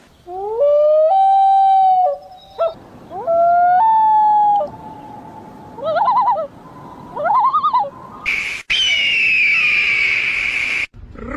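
Loud bird calls: two long whistled calls that rise and then hold, two short warbling calls, then a harsh screeching call that falls in pitch near the end.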